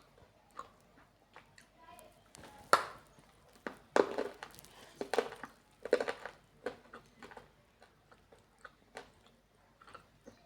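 Lumps of multani mitti (fuller's earth clay) being bitten and chewed close to the microphone: irregular sharp cracks and crunches, loudest in a run of bites from about three to six seconds in.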